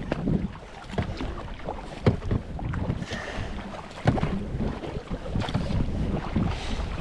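Wind buffeting the microphone on a kayak at sea, with water sloshing and splashing around the boat and a few sharp knocks.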